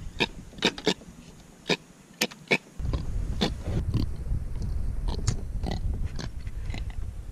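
A grunter (javelin fish) out of the water gives a string of short, irregularly spaced grunts. A low background rumble sets in about three seconds in.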